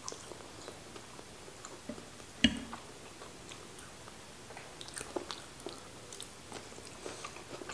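Close-up mouth sounds of chewing and biting into cooked green beans: small wet clicks and crunches, coming thicker from about five seconds in. A single sharp knock stands out about two and a half seconds in.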